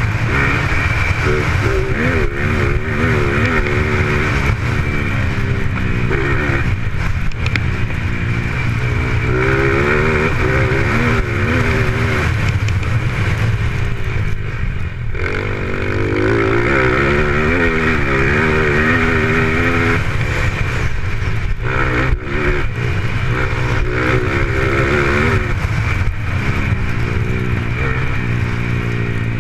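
Racing motorcycle engines revving up and falling back again and again, loud and continuous, over a steady low rumble.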